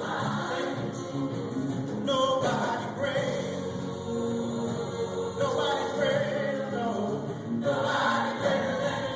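A choir singing a gospel song together, in sustained phrases that change note every second or so.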